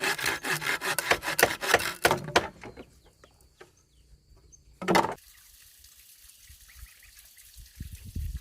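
Hand saw cutting bamboo, about four strokes a second, stopping a little over two seconds in. A single short, loud knock follows about five seconds in.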